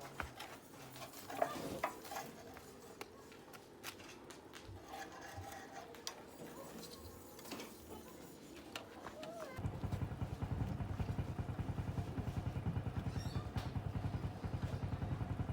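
Scattered clicks and knocks of hand work, then about two thirds of the way in a small engine starts abruptly and keeps running at a fast, even idle.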